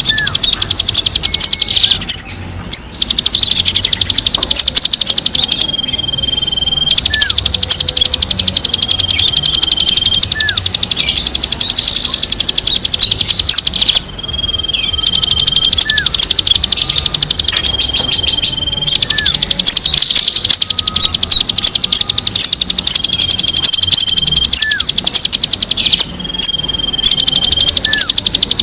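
Recorded songbird calls played as a bird-caller track: dense, very rapid high-pitched chatter that stops for a moment every few seconds. Short, clear, steady whistles repeat over the chatter, along with small falling chirps lower down.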